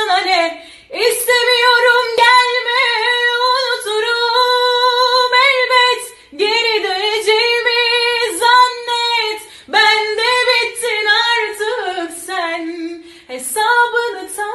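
A woman singing unaccompanied in a high voice, with long held notes and ornamented turns. Her phrases are broken by short breaths about every three to four seconds.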